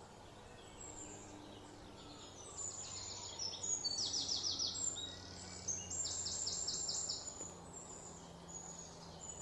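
Birds singing: high, fast trills of repeated short notes, loudest a little over three seconds in and again about six seconds in, over a steady outdoor background noise.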